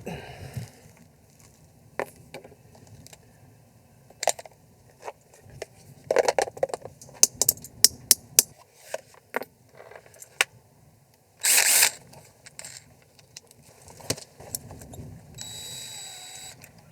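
Hammer striking a bent metal boat-seat hinge to flatten it: sharp metallic taps, scattered at first and then coming quickly for a couple of seconds. About two-thirds of the way through there is one brief louder rasping burst, and near the end a short steady whir.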